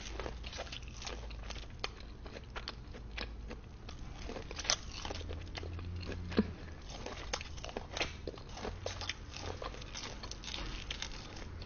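Close-miked eating sounds: crunchy bites and chewing of parmesan-seasoned corn, a steady run of small crisp clicks with a couple of louder bites near the middle.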